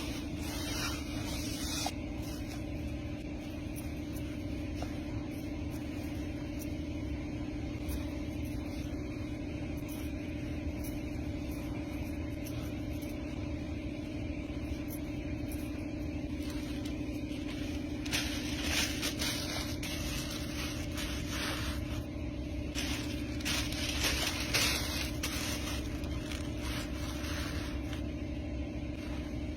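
Factory machinery running with a steady hum and low rumble, joined a few times by short bursts of hissing.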